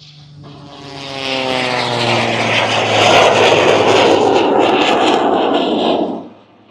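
The jet Waco biplane, with its Pratt & Whitney R-985 radial engine and J85 jet engine running together, passes the crowd at air-show speed. The sound builds over about a second and the engine's pitch falls as it goes by. A loud roar follows and cuts off suddenly near the end.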